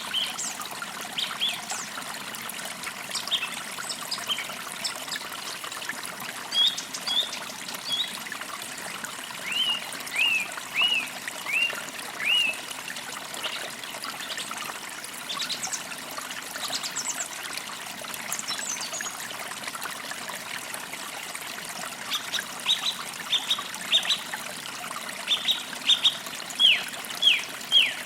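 Forest creek trickling steadily over stones, with small birds chirping: bursts of short, high down-slurred notes repeated several times in quick series, strongest near the end.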